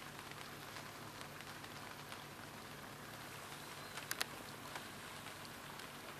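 Light rain pattering on the water and the boat, with a couple of sharper drop ticks about four seconds in.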